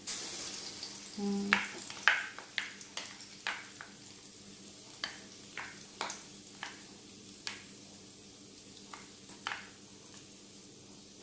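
Tofu patties frying in hot oil in a wok: a burst of sizzling at the start as a spoonful of the mixture goes in, then scattered sharp pops and clicks that grow sparser toward the end.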